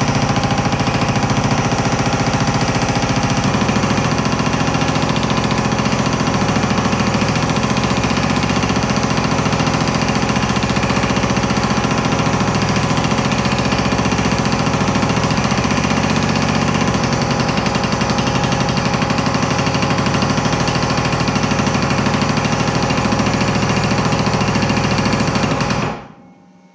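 Power hammer pounding sheet steel in a fast, unbroken stream of strokes while the trunk gutter panel is being shaped; the hammering stops abruptly near the end, leaving a low hum.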